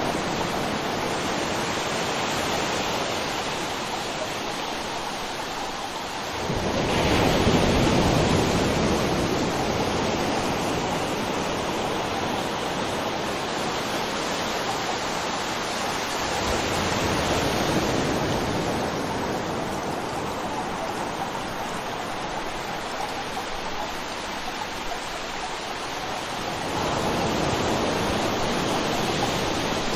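River water flowing in a steady rush, swelling louder about every ten seconds.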